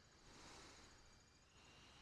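Near silence: faint outdoor hiss with a thin, steady high-pitched whine that steps down in pitch about one and a half seconds in.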